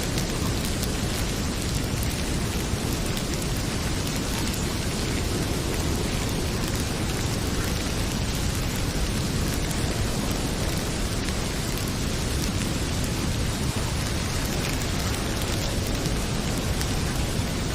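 Heavy rain pouring steadily, with a deep low rumble under it, and faint scattered crackles of a wood fire in a fireplace.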